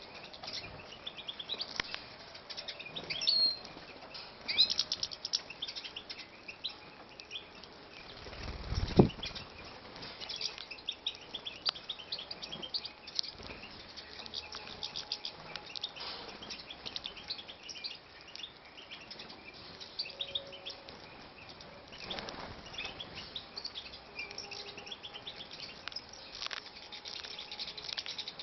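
Finches (goldfinches and bullfinches) in a breeding cage or aviary, giving quick, high chirps and calls throughout, with bursts of wing fluttering. A dull thump comes about nine seconds in.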